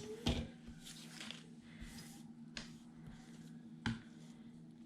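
Sheets of scrapbook paper being handled and shuffled on a table: soft rustling and sliding of paper, with a sharp tap just after the start and another about four seconds in.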